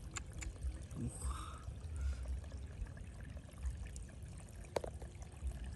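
Water pouring and trickling, with scattered small clicks and one sharper click near the end.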